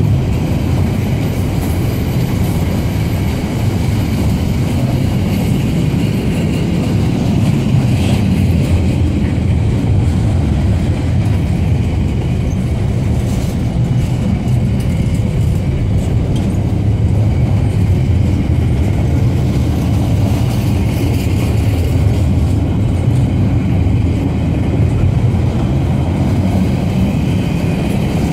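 Intermodal container wagons of a freight train rolling past: a steady rumble of steel wheels on rail.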